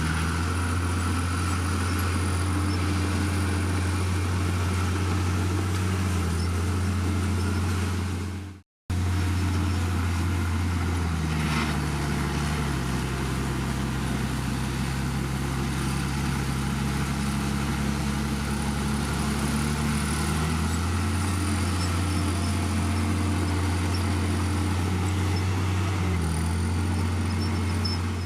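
Heavy diesel engine of earthmoving equipment running steadily, its low drone shifting in pitch several times as engine speed changes. It cuts out abruptly for a moment about nine seconds in.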